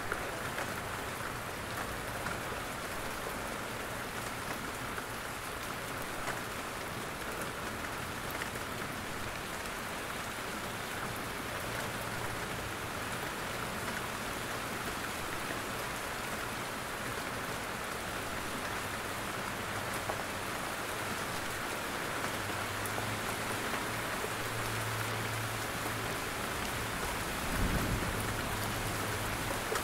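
Steady rain, with drops falling from the trees. A low rumble comes in during the second half, and a single low thump sounds near the end.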